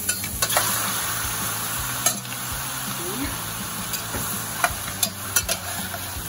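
Shrimp and squid sizzling with onion, ginger and garlic in a stainless steel pot while a metal ladle stirs them, with several sharp clinks of the ladle against the pot. The sizzle is strongest in the first two seconds.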